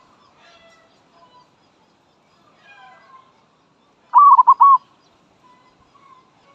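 Zebra dove (merbok) calling close by: a loud, quick run of about four cooing notes about four seconds in, with fainter bird calls in between. It is the call of a decoy dove used to lure wild doves.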